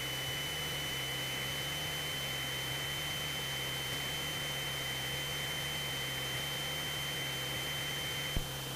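Cabin noise of a Cessna 172SP on final approach with the power back, heard through the headset intercom: a steady hiss over a low drone from the four-cylinder Lycoming engine and propeller at reduced power, with a faint thin high whine. There is a single click near the end.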